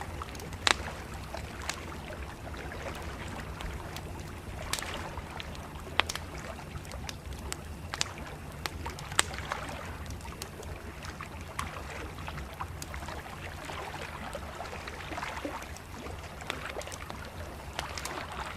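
Campfire crackling, with sharp pops every second or so, over a steady wash of river water lapping.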